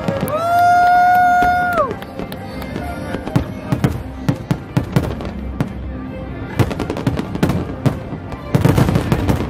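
Aerial fireworks bursting: a dense run of sharp bangs and crackles, with a loud held tone through about the first two seconds and a heavier cluster of bangs near the end.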